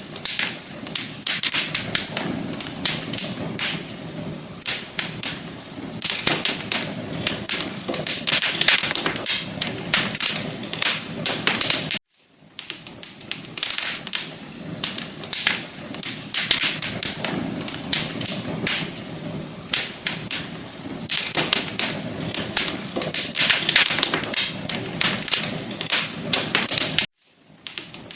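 Wood fire crackling in a fireplace: a dense run of sharp pops and snaps over a steady hiss. It cuts out for a moment about twelve seconds in and again near the end.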